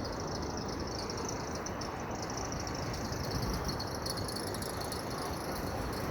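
Crickets chirring steadily in a high, fluttering band over the low, even rumble of city traffic.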